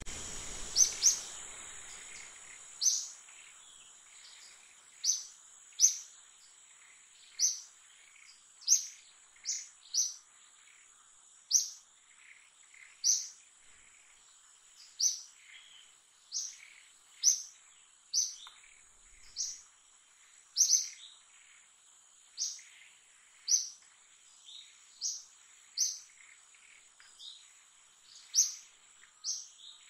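A bird repeatedly giving short, sharp high chirps, roughly one a second at an irregular pace, over a steady high-pitched insect drone.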